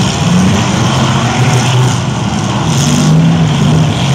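Demolition derby stock cars' engines running and revving in the arena, several at once, the pitch rising and settling as they accelerate.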